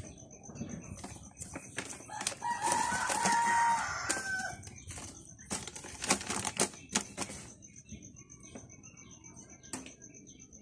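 A rooster crowing once, starting about two and a half seconds in and lasting about a second and a half, among short clicks and rustles.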